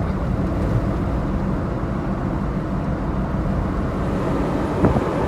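Steady low rumble of a car driving, engine and tyre noise with a faint steady hum.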